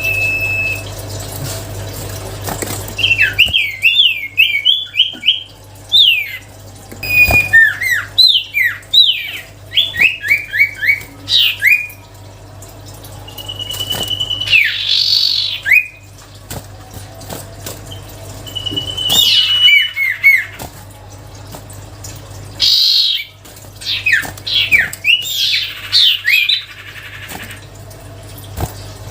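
Cipoh (common iora) singing in bouts: long steady whistles broken by fast runs of sharp rising and falling notes, with short pauses between bouts. A low steady hum sits underneath.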